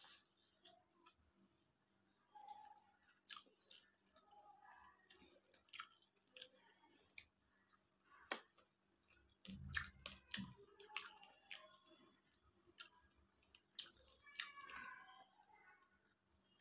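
Eating by hand: quiet chewing and wet mouth clicks from a mouthful of rice, with soft squishing as fingers mix rice on a steel plate. Many short sharp clicks come throughout, and a brief low bump about ten seconds in.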